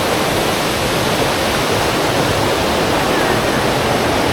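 A short river cascade rushing steadily over rocks.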